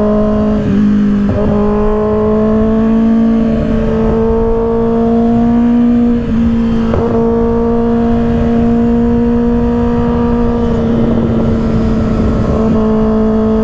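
2024 Kawasaki ZX-6R's 636 cc inline-four running hard at high revs through an M4 aftermarket exhaust, a loud steady note whose pitch creeps up slowly, with a brief dip about six seconds in.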